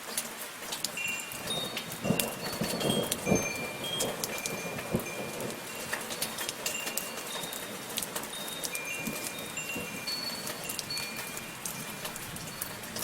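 Steady soft rain with wind chimes tinkling throughout in scattered high, ringing notes. About two seconds in the rain grows louder and fuller for a couple of seconds, then settles back.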